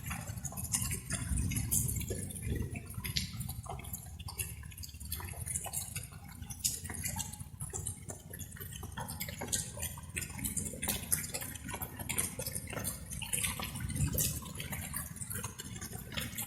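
Light rain: raindrops pattering and dripping in an irregular scatter of sharp ticks, over a steady low rumble.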